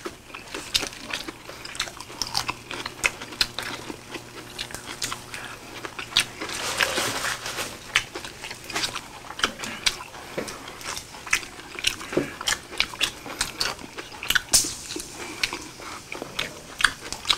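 Close-up eating sounds: chewing and lip smacking of grilled pork, heard as a quick, irregular run of small wet clicks, with a denser crunching stretch about six seconds in.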